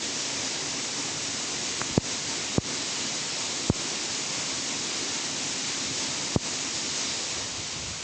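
A steady rushing hiss with no pitch, broken by four sharp clicks, two close together about two seconds in and two more spread out later.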